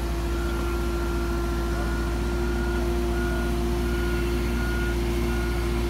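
Marine travel lift running steadily, a constant low drone with one held tone and a fainter higher tone that comes and goes.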